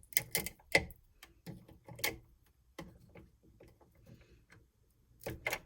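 Irregular clicks and light taps of small plastic Lego parts being handled and fitted, loudest in a cluster near the start and again near the end.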